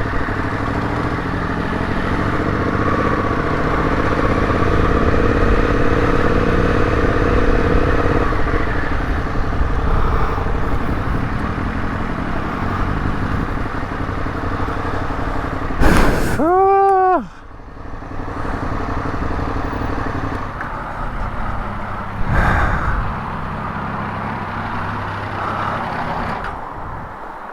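Motorcycle engine running while riding along, its pitch shifting up and down. About sixteen seconds in, a brief loud sound rises and then falls in pitch. The engine sound drops off near the end.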